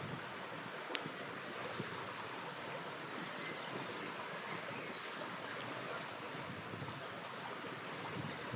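River water flowing steadily, with a campfire crackling and a sharp pop about a second in and another later on. Faint high bird chirps come and go.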